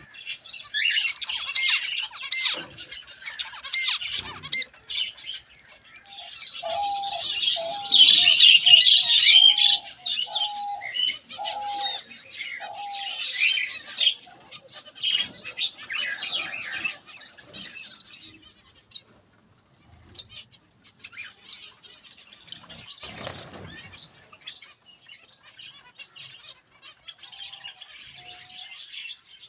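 A flock of caged aviary birds chirping and squawking, many calls overlapping in dense bursts. A run of about eight short, repeated lower calls stands out in the middle, and the chatter thins out in the second half.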